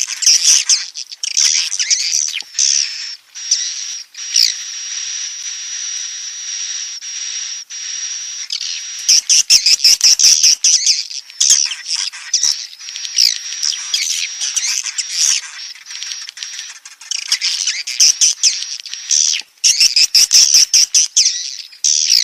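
Swiftlet chicks calling in the nest: dense, rapid high-pitched chirping and squeaking, with a thin steady high tone running under it for much of the time. The chirping swells into louder bursts about nine seconds in and again near the end.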